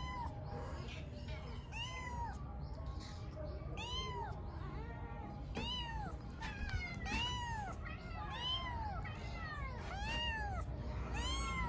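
Kitten meowing over and over: about nine short, high calls, each rising and falling in pitch, with a steady low hum underneath.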